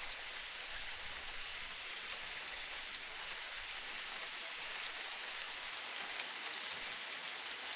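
Steady, even hiss of rain-like water noise, strongest in the high range, with a few faint ticks.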